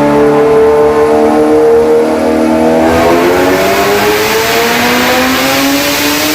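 Kawasaki ZX-6R inline-four engine revving under load on a dyno through an Austin Racing aftermarket exhaust. Engine pitch climbs steadily, steps down about three seconds in, then climbs again.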